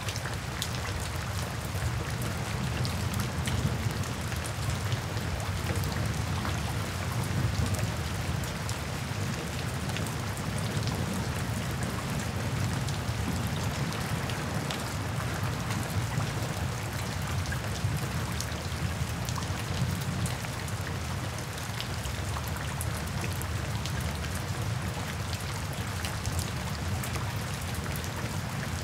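Steady rain falling, with many small drops ticking on hard surfaces over a constant low rumble.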